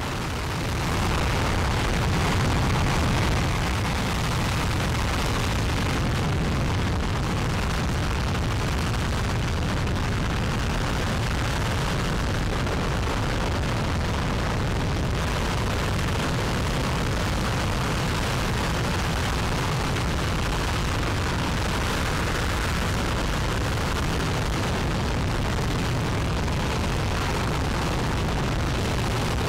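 RS-25 liquid-hydrogen/liquid-oxygen rocket engine firing on a test stand: a loud, steady rumble of exhaust noise that swells slightly in the first few seconds, then holds level.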